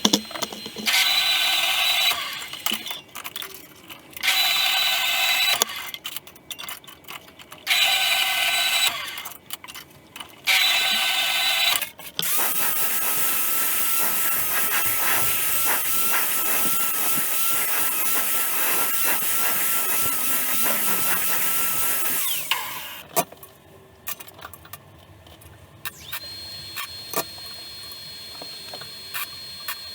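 Electric power tool run in four short bursts of about a second each, then run continuously for about ten seconds before stopping.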